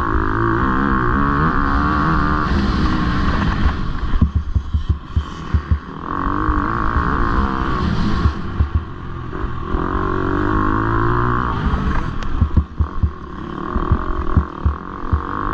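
Motocross bike engine racing, its pitch rising and falling as the throttle opens and closes. Twice, about four and twelve seconds in, the engine drops off briefly under a run of short knocks and rattles.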